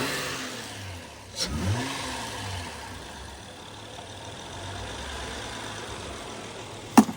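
Car engine with an aftermarket intake idling, blipped once about a second and a half in, a quick rev up and back down, then settling back to idle. A sharp click near the end.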